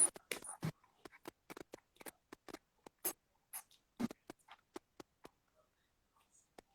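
Quick, irregular soft taps and clicks, several a second, that thin out to a few faint ones after about five seconds.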